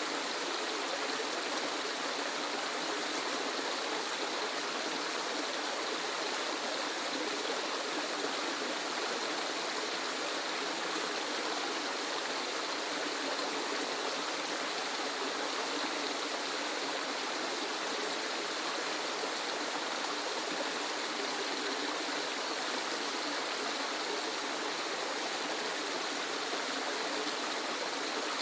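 Waterfall: a steady, even rush of falling water, mostly hiss with little low rumble, unchanging throughout.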